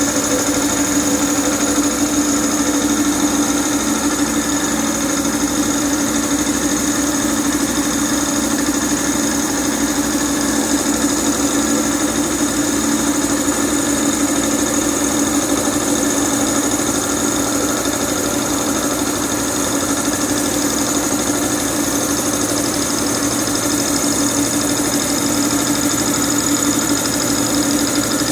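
Homemade V4 piston compressor running steadily, a continuous mechanical hum with a fast even pulsing and a high whine over it.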